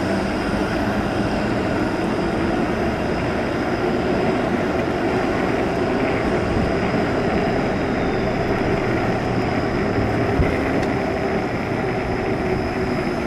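Steady rush of wind and tyre noise from a fat-tire e-bike riding on a wet road in the rain, with a faint, steady high-pitched whine.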